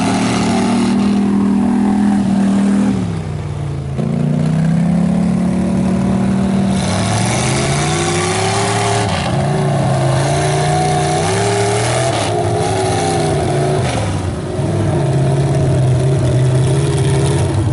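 Mega truck engine running hard under heavy throttle, its pitch rising and falling as it revs up and eases off. It briefly drops off about three seconds in, then climbs again.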